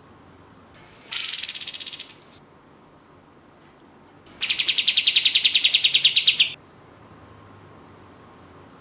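Kapas tembak (olive-winged bulbul) giving its rapid-fire 'tembak' call. There is a short, fast rattling burst about a second in, then a longer burst of about two seconds in the middle, each made of quickly repeated high notes.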